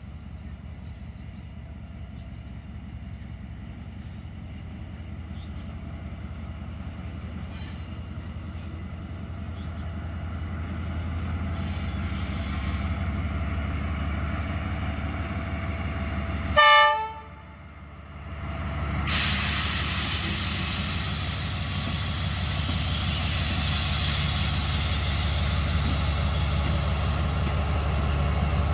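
D19E diesel-electric locomotive approaching with its engine rumble building, then one short, loud blast of its horn a little past halfway. A few seconds later it passes close by hauling a freight train, with a steady rush of engine and wheel noise.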